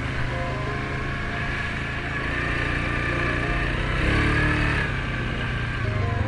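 Suzuki King Quad 750 ATV's single-cylinder engine running under way on a trail, its throttle opening up briefly about four seconds in.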